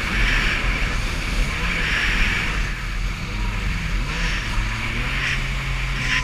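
Jet ski engine running under way, its pitch rising and falling with the throttle, over a steady rush of wind and water spray.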